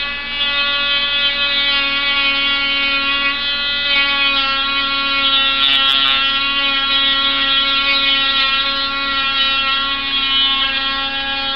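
Dremel rotary tool running at a steady high speed with a constant whine as it countersinks a shallow recess for a hinge. The grinding gets harsher about six seconds in.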